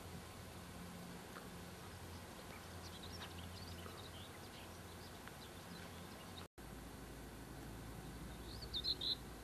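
Small birds chirping faintly in the middle, then a short, louder run of quick high chirps near the end, over a steady hiss with a low hum. The sound drops out for an instant about two-thirds of the way in.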